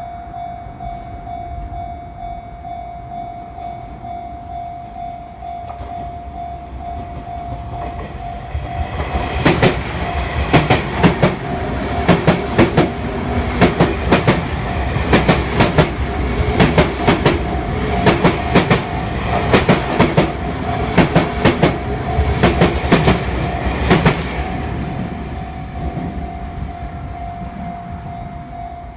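Sotetsu electric train passing over a level crossing, its wheels clacking over rail joints in quick pairs for about fifteen seconds, then fading away. A level-crossing alarm rings steadily throughout.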